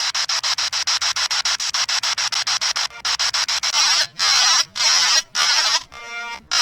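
Spirit box scanning through radio stations: static chopped into rapid pulses, about ten a second. After about three seconds it breaks into longer bursts of static with short gaps, and a brief pitched tone comes through near the end.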